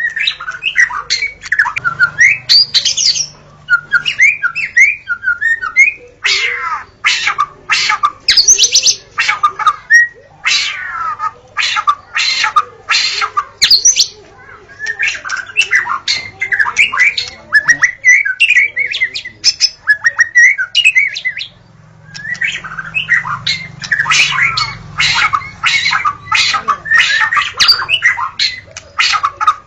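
White-rumped shama singing a long, varied song: fluting whistled phrases that glide up and down, broken by fast runs of sharp, harsh repeated notes, with a few brief pauses.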